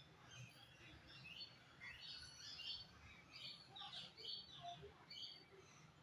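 Faint, busy bird chirping: many short high chirps and quick whistled sweeps, overlapping one another throughout.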